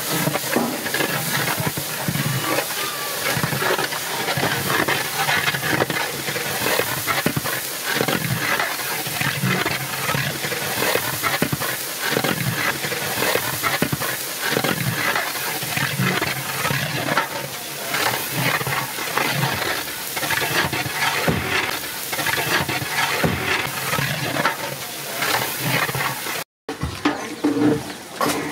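Mutton sizzling in hot oil and masala in a large metal cooking pot, with a long metal ladle scraping and knocking against the pot as it is stirred. The sound breaks off briefly near the end.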